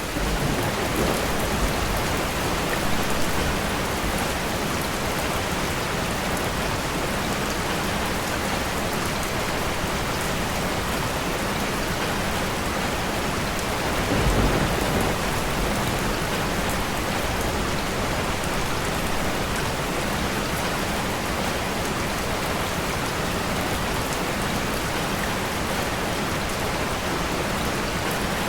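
Steady rain falling and pattering on surfaces. About halfway through there is a brief low rumble.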